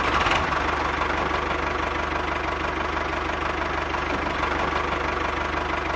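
Small engine of a homemade mini tractor running steadily, with a rapid, even pulse.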